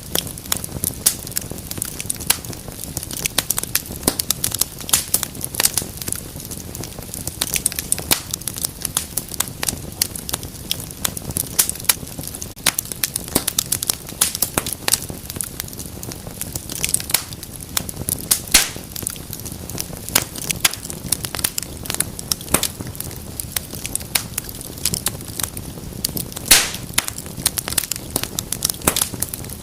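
Wood fire burning in a fireplace: a steady low hiss of flames under constant irregular crackling, with a few louder pops.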